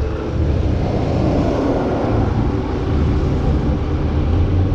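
Road traffic: a motor vehicle's engine running with a steady low rumble, its pitch stepping up slightly about two seconds in.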